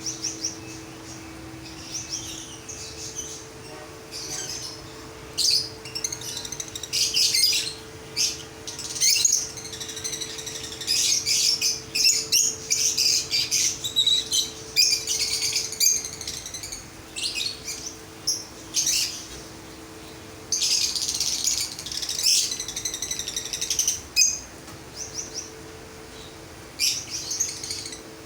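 A flock of small pet aviary birds chirping and twittering in quick, overlapping bursts, over a steady low hum.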